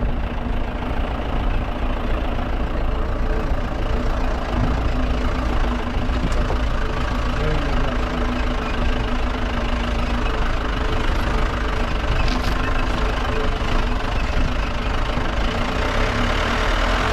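A vehicle's engine running steadily while under way, with a constant low road rumble and a steady hum.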